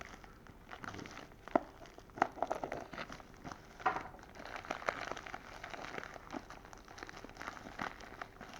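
Packaging being handled and opened by hand: irregular crinkling and rustling with sharp crackles and a few louder snaps.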